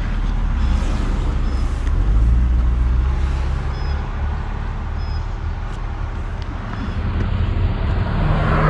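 BMW 325i's inline-six idling while the car sits stopped, heard from inside the cabin, with traffic passing. Another vehicle swells past near the end.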